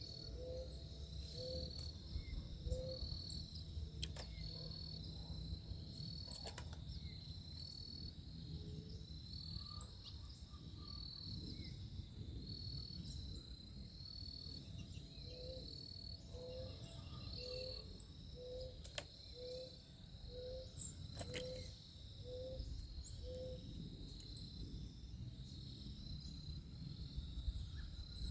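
Backyard ambience: a steady, high pulsing insect trill, with a low note repeated about one and a half times a second in two runs, a faint low rumble and a few sharp clicks.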